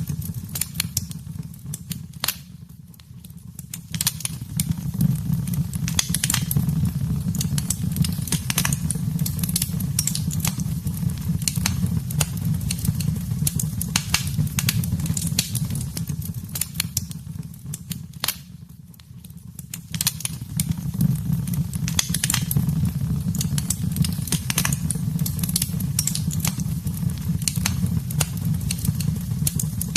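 Wood fire in a fireplace crackling and popping over a low, steady rumble of flames. The crackling thins out and the fire goes quieter twice, about three seconds in and again near twenty seconds, then picks up again.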